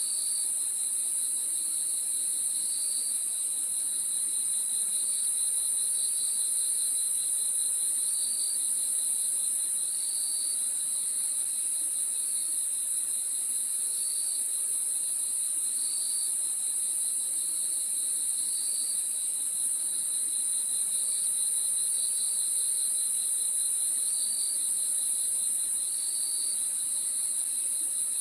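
Crickets chirping steadily in a night chorus: a continuous high trill, with a second, lower cricket giving short chirps about once a second.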